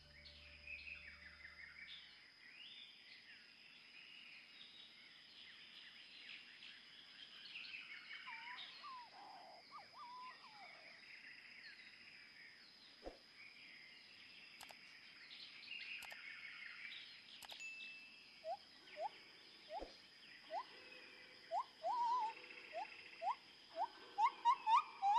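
Faint birdsong and chirping, then a bird calling in short rising notes, repeated over and over and coming louder and closer together over the last several seconds. A thin steady high-pitched whine runs underneath, with a couple of soft clicks.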